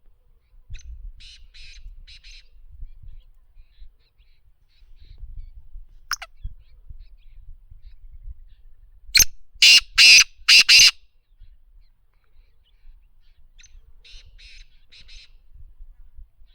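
Black francolin calling: a loud call of five harsh, grating notes about nine seconds in, with fainter calls of four or five similar notes near the start and near the end.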